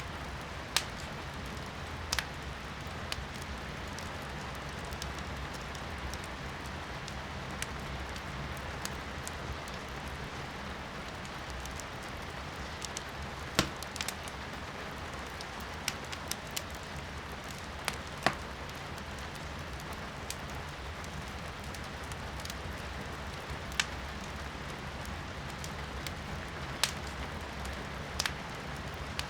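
Wood fire crackling in a fireplace, with a dozen or so sharp pops at irregular intervals, the loudest about halfway through, over a steady hiss of rain heard from inside the room.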